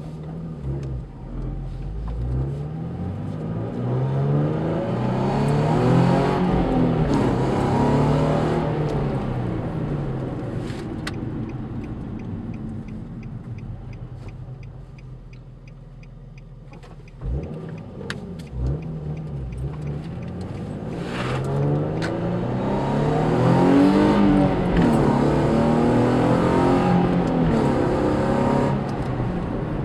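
Nissan 350Z's VQ35HR 3.5-litre V6, breathing through ART pipes and the stock exhaust, pulling hard twice. Each time the note climbs in pitch and grows loud, then falls away. The first peak comes about six seconds in and the second near twenty-four seconds, with a quieter lull between them.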